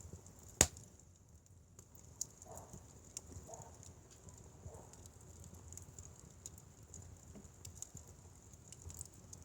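Firewood burning with small crackles and ticks, and one sharp loud pop about half a second in.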